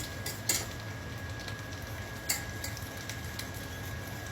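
Oil sizzling steadily in a frying pan, with two sharp clicks, one about half a second in and one about two seconds in.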